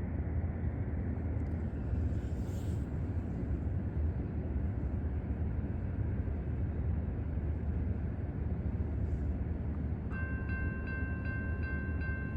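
Loaded coal train's freight cars rolling past, a steady, even low rumble of wheels on rail. About ten seconds in, a repeating high ringing pattern joins.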